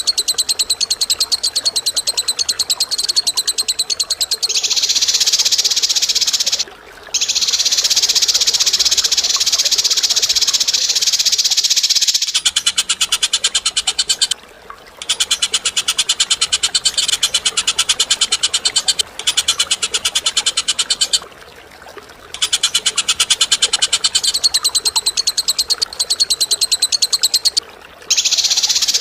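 A bird's harsh, rapid rattling chatter, sustained in long phrases of several seconds with brief pauses between them.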